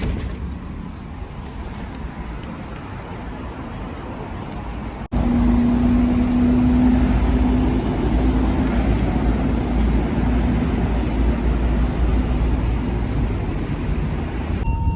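Steady road traffic noise with a low rumble. About five seconds in it cuts off abruptly and comes back louder, with a low engine hum for a few seconds.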